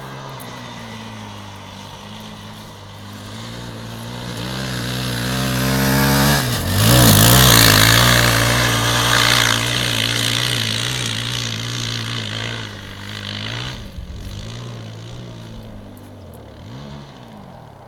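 Motocross dirt bike engine running, growing louder to a peak about seven seconds in and then fading, with two short dips and rises in engine pitch near the end.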